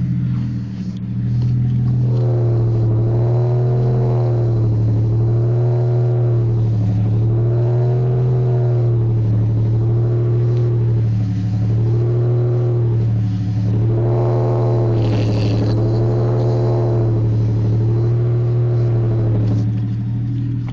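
Chevrolet TrailBlazer's engine running in gear on jack stands, driving a raised wheel: a steady low hum with a warbling whine that swells and fades about every two seconds as the wheel turns. The owner takes this side of the drivetrain to be faulty.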